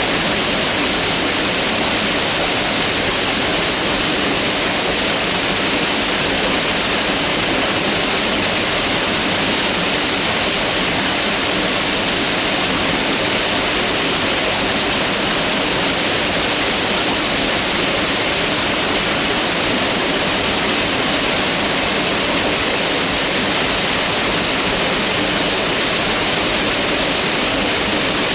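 Mountain river rushing steadily over rocks: a loud, even water roar with no changes.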